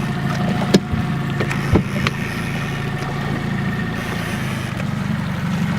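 A boat's motor running steadily, with a couple of short sharp knocks about one and two seconds in.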